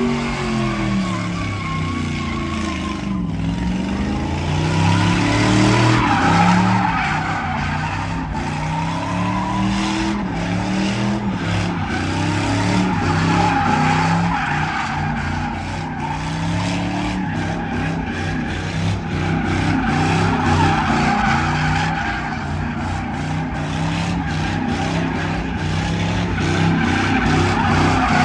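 Truck engine revving up and down repeatedly while its tyres squeal and skid in a sustained burnout.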